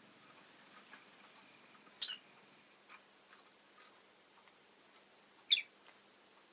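Rosy-faced lovebird giving two short, sharp chirps about three and a half seconds apart, over faint scattered clicks.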